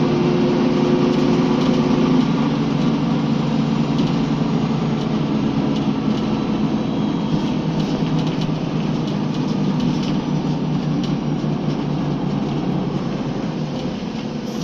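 Scania L94UB bus driving along, its engine note and tyre and road noise running steadily. A clear engine tone drops out about two seconds in, and the overall sound eases slightly near the end.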